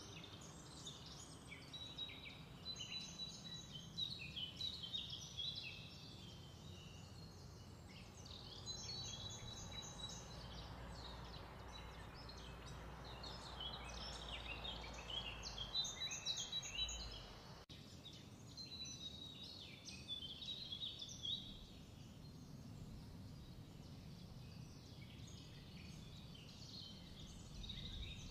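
Birds chirping continually in the background over a low steady hum.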